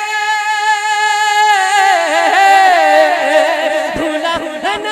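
A male naat reciter singing one long held note, which about two seconds in breaks into a wavering, ornamented run of notes.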